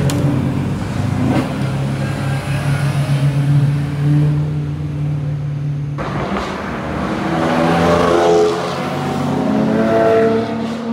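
Sports car engines: a steady drone for about six seconds, then an abrupt change to an engine revving up with rising pitch.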